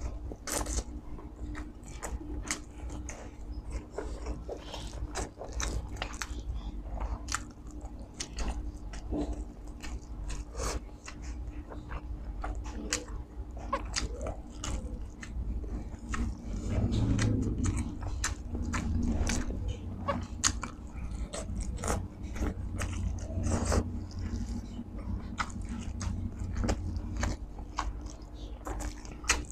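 Close-up chewing and lip-smacking of a person eating spicy chicken isaw (chicken intestines) with rice by hand, with many short wet mouth clicks throughout. It gets louder for a few seconds about halfway through.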